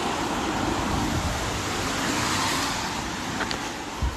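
Steady rushing noise of road traffic, swelling a little and then easing off as a vehicle goes by, with a soft thump near the end.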